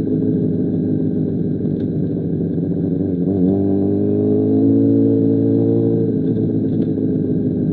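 2005 Honda CBR1000RR inline-four engine running through an SC Project CR-T exhaust at steady throttle. A little over three seconds in, the revs dip briefly and then climb to a higher, steady pitch, easing back down around six seconds.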